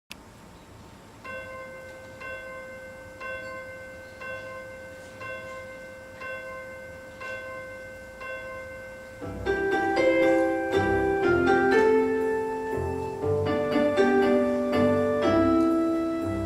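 Piano introduction to a song: a single high note struck about once a second over a held lower note, then, about nine seconds in, louder chords and moving notes join in.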